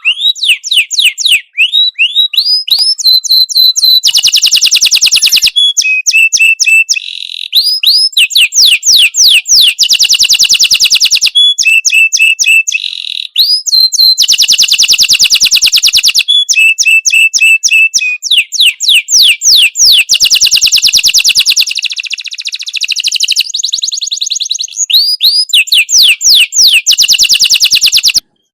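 Songbird singing loudly and continuously, a recorded master song for training young birds: runs of rapid rising whistled sweeps alternating with very fast, dense trills. It cuts off abruptly near the end.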